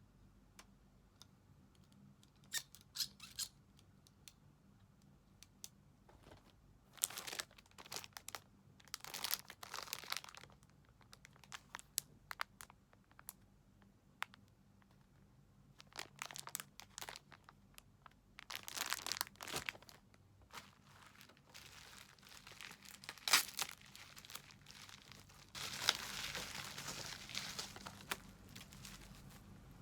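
Packaging being handled and opened: short bursts of crinkling and tearing with scattered light clicks, then a longer stretch of crinkling near the end.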